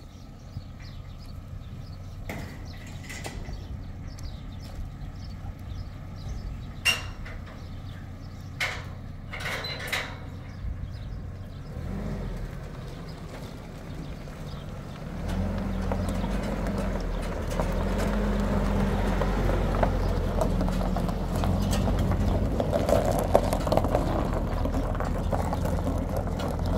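A few sharp knocks, then from about halfway through a motor starts a steady low running hum that holds to the end.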